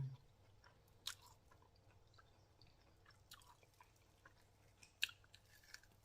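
Faint, scattered crunches of someone biting into and chewing crispy deep-fried battered chicken wings, a few separate crunches a second or more apart.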